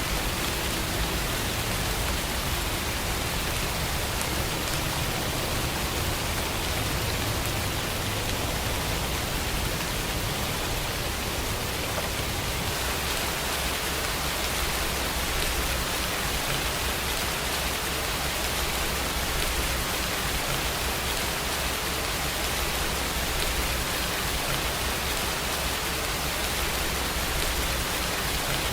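Steady, even rain falling, a continuous hiss with a low rumble underneath and no individual drops or thunder standing out.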